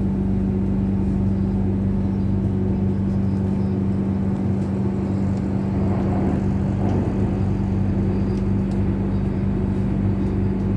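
Cabin noise of an Airport Rail Link electric train running at steady speed on the elevated track: an even low drone with a constant humming tone, unchanging in level.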